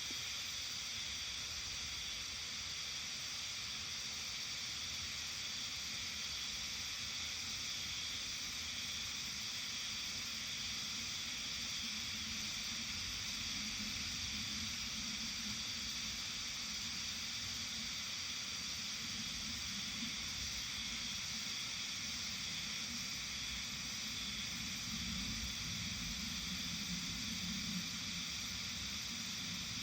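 Steady outdoor evening ambience: a continuous, even high-pitched hiss-like chorus with no breaks, over a low wavering rumble that grows a little stronger in the second half.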